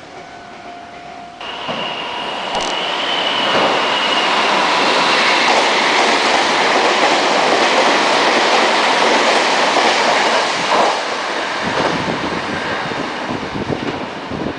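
Meitetsu 3000-series red electric train running through a station at speed without stopping: a loud rush of wheels on rail with a high whine at first, loudest in the middle and fading near the end. The sound starts abruptly about a second and a half in.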